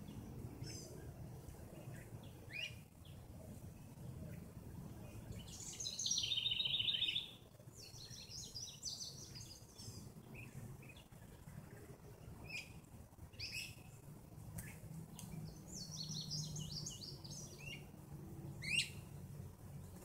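Several songbirds singing and calling in short phrases, the loudest a fast trill of rapidly repeated notes about six seconds in, with a sharp single call near the end. A steady low rumble runs underneath.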